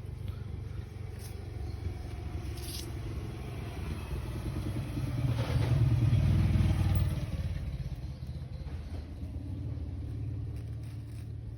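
Low, steady engine rumble of a motor vehicle, swelling to its loudest about halfway through and then falling back.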